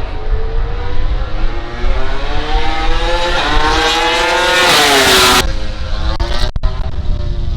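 MotoGP race bike's 1,000 cc four-stroke engine at high revs, its pitch climbing as it accelerates toward the listener, then falling sharply as it passes about five seconds in. Engine sound from the track carries on at a lower level after it.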